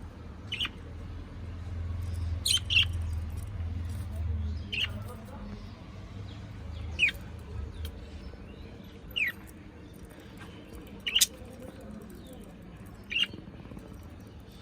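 A pet parrot giving short, sharp chirps that drop in pitch, about eight of them, roughly one every two seconds. A low rumble sits under the first half.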